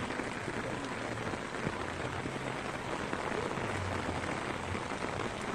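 Steady rain falling on surfaces, an even hiss.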